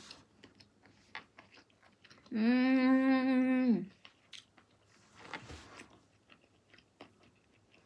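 Close-up chewing of boiled octopus sashimi: soft wet mouth clicks, broken about two seconds in by a hummed "mmm" of enjoyment, held at one pitch for about a second and a half.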